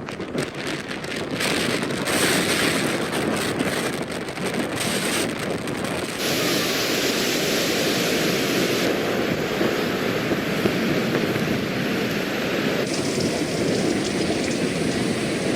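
Steady loud rushing noise of water with wind buffeting the microphone, changing abruptly three times: about 6, 9 and 13 seconds in.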